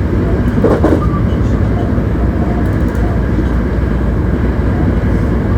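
Inside a Hankyu 1300 series electric train running at speed between stations: a steady rumble of wheels on rail and car body noise, with a brief louder sound about a second in.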